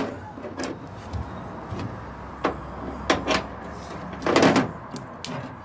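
Several sharp metallic knocks and clanks, then a longer rattling scrape about four seconds in, from work on a recovery truck's winch and its steel cable, over a low steady hum.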